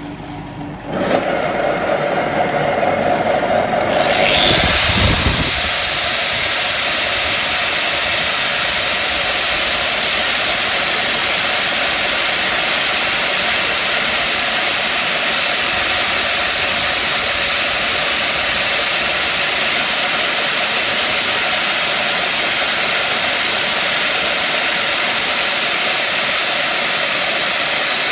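Power tools polishing a shock absorber rod dry for a final shine. A motor starts about a second in, a second tool spins up with a rising whine around four seconds, and then a steady, loud hiss of the abrasive on the metal carries on.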